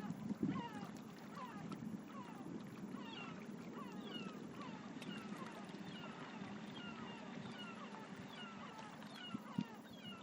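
Many birds calling together, short falling-pitched notes overlapping several times a second, over a low steady rumble.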